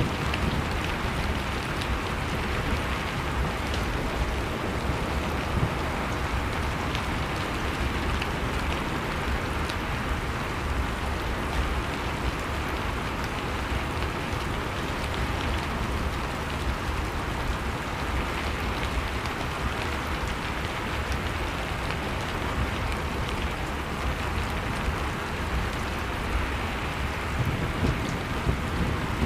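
Blizzard wind blowing steadily with a low rumble, mixed with a wood fire crackling in scattered small pops.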